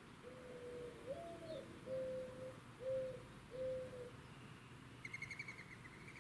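Mourning dove cooing: a long low coo, a slightly higher note, then three shorter coos. About five seconds in comes a brief, fast, high trill.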